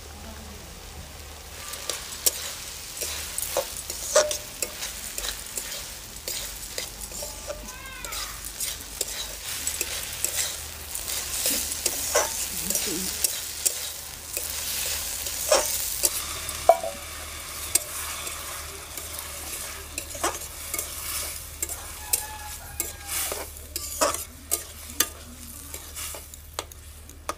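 Small shrimp and chopped bottle gourd frying in a metal wok, sizzling once the shrimp go in about two seconds in. A metal spatula stirs the mix, with frequent sharp clicks and scrapes against the pan.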